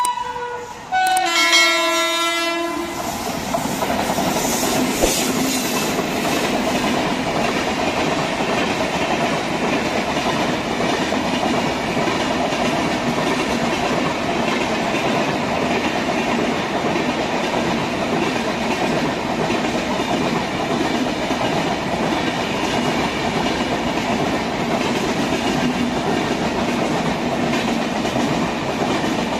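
A train horn sounds for about two seconds, then a long Indian Railways express train passes close by, its coaches' wheels running over the rails with a steady rumble and clickety-clack.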